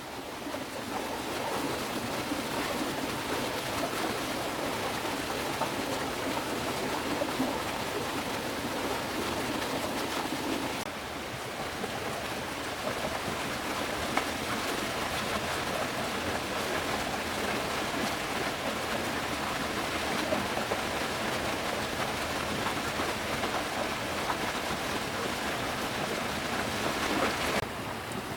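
Steady hiss of water, a dense even wash with no distinct strokes, shifting slightly in level twice.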